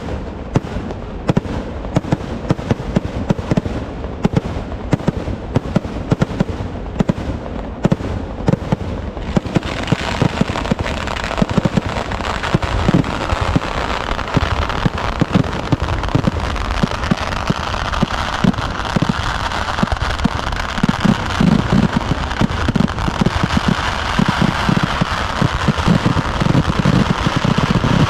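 Kerala festival fireworks (vedikettu) going off in a rapid barrage, many bangs a second; the separate reports merge into a dense, unbroken rattle of explosions from about ten seconds in and grow a little louder near the end.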